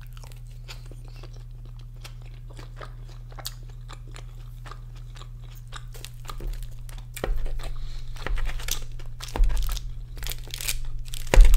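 Close-miked chewing of a mouthful of loaded crinkle-cut fries with cheese and chicken: soft, wet crunching clicks that grow louder about halfway through. A few low thumps come in the second half, the loudest near the end, over a steady low hum.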